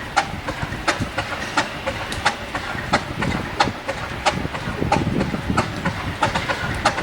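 Class 50 diesel locomotive's English Electric 16-cylinder engine running during a cold start: a low rumble with a regular sharp click about every two-thirds of a second.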